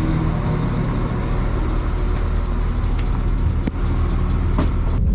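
Steady low engine rumble of a train, with two sharp clicks about three and four and a half seconds in.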